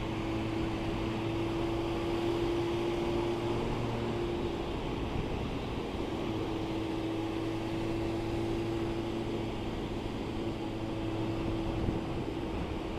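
Yamaha Thundercat motorcycle's inline-four engine running at a steady cruise, over a constant rush of wind and wet-road noise.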